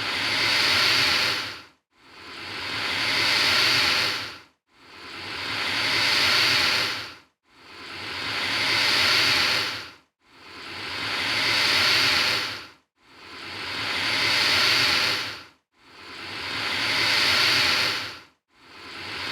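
Alligator hissing over and over, one hiss about every three seconds. Each hiss swells over about a second, holds, then cuts off sharply, with a brief silence before the next.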